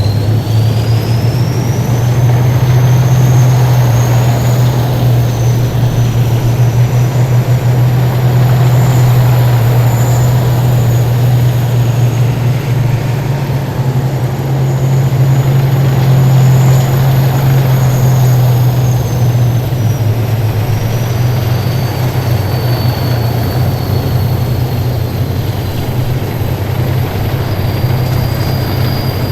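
Heavy military vehicles driving past in a column, their engines a loud, steady low drone, with a thin high-pitched whine that rises over the first couple of seconds, holds, and slowly falls away in the second half.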